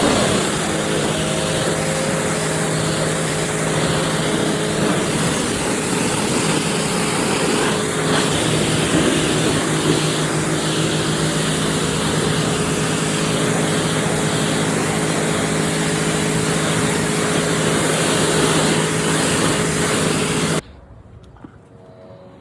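Pressure washer running steadily: the pump hums under the hiss of the water spray. It cuts off suddenly near the end.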